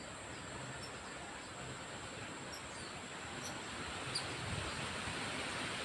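Outdoor ambience: an even hiss with a steady, thin high-pitched tone and a few faint, short high chirps scattered through it.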